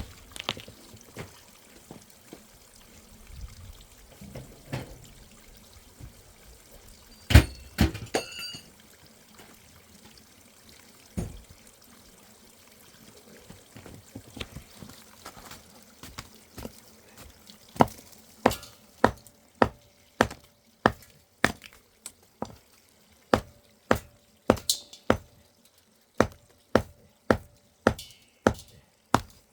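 Scattered knocks and clatter with one loud bang about seven seconds in, then a steady run of sharp strikes about two a second from around eighteen seconds in.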